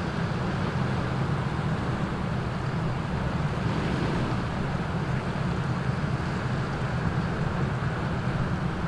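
Diesel engine of a passing Rhine inland vessel, a steady low drone that holds even throughout, with a wash of water and wind noise over it.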